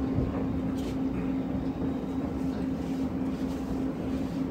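Inside an E257 series limited express car while it runs: the steady rumble of the train in motion, with a steady low hum.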